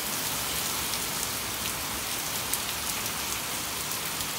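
Heavy rain pouring and splashing close by: a steady hiss with scattered sharp ticks of drops hitting.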